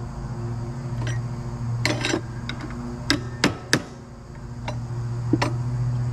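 Irregular metal-on-metal clanks and taps of hand tools on the winch's steel parts, about eight strikes with the loudest three close together around three to four seconds in, over a steady low hum.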